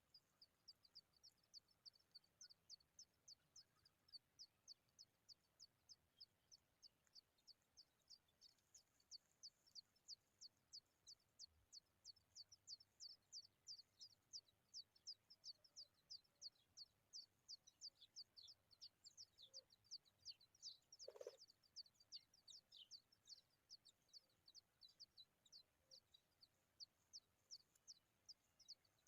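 Familiar chat nestlings begging: thin, high cheeps repeated rapidly, about three a second, without a break. There is one short, dull knock about two-thirds of the way through.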